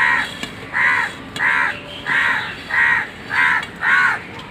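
A crow cawing in a steady series: seven caws about two-thirds of a second apart.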